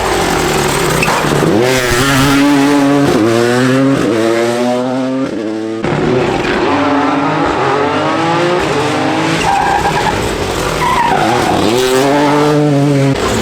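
Rally car engines driven hard, the pitch climbing steeply and dropping back with each gear change. The sound breaks off abruptly about halfway and picks up again with another run.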